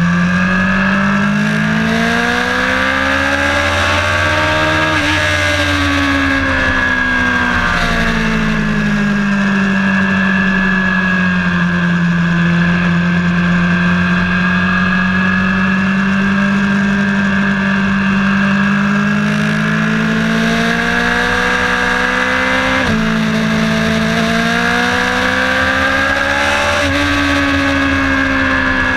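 A vehicle's engine heard from on board while lapping a track: its pitch climbs over the first few seconds, falls back, holds steady for a long stretch, then drops abruptly and climbs again twice near the end, as at gear changes.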